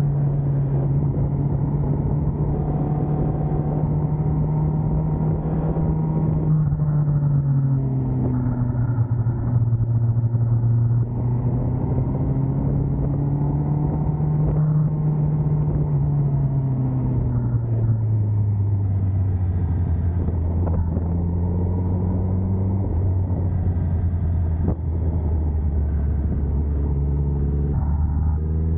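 Sport motorcycle engine running, heard on board the bike. Its note sinks gradually over the first two-thirds, holds low, then climbs near the end as the throttle opens.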